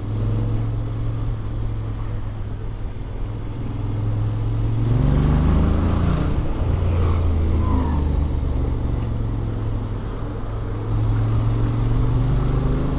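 Honda X-ADV 750's parallel-twin engine running under way with the stock exhaust and Akrapovic manifold, with road and wind noise. The engine note drops lower and gets louder about five seconds in, then goes back to its earlier pitch near eleven seconds.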